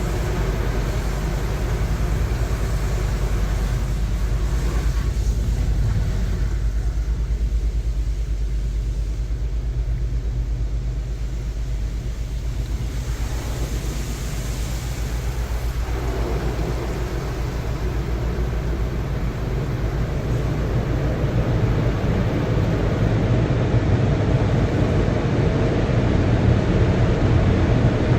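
Automatic car wash machinery running around the car, heard from inside the cabin. There is a steady low rumble with a rushing noise over it. The rushing eases off for a while and then swells again about halfway through.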